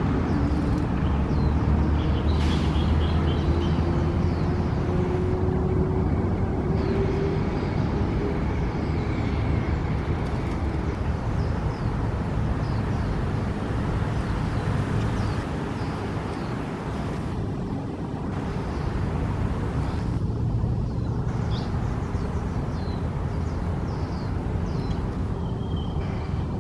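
Steady low rumble of distant road traffic, with a passing engine rising slowly in pitch over the first several seconds. Short, high bird chirps are scattered throughout.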